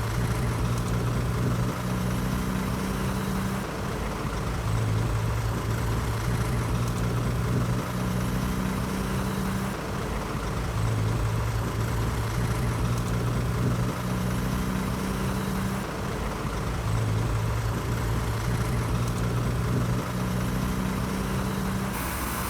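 Heavy diesel engine of earthmoving machinery running steadily, its low hum shifting in an even cycle about every six seconds.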